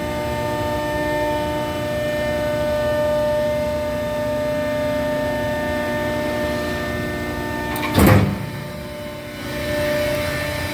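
Horizontal baler's hydraulic power unit running with a steady hum as the baling ram pushes forward. About eight seconds in there is one loud clank, after which the hum's pitch changes.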